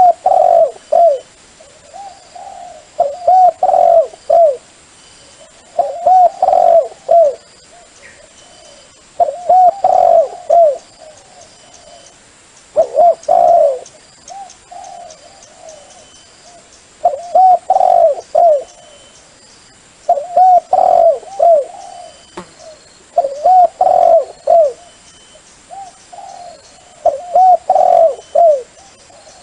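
Dove cooing, used as a lure call for trapping: phrases of three to five short arched coos repeated about every three to four seconds.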